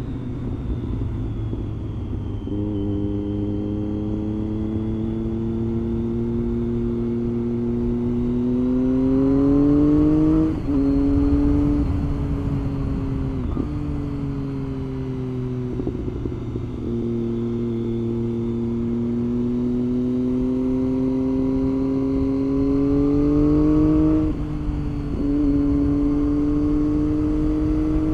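Triumph Street Triple 675 inline-three engine pulling the bike along under steady throttle, its pitch climbing slowly and dropping sharply at an upshift about ten seconds in and again near the end.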